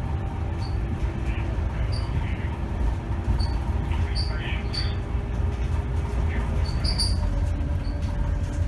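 2010 Scania K270 city bus driving, heard from inside: a steady low diesel engine and road rumble, with short high squeaks and rattles from the bus body scattered through. The engine note steps higher near the end.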